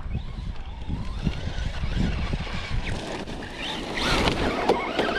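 Electric RC truck motors whining in short rising and falling revs, over a steady rumble of wind on the microphone.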